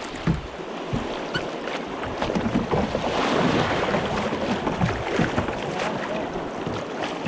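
Water around a kayak on a river: paddle splashes and the rush of moving water, swelling for a few seconds in the middle, with a couple of low knocks near the start.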